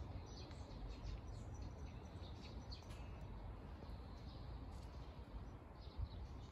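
Faint chirping of small birds in short, scattered notes over a steady low rumble.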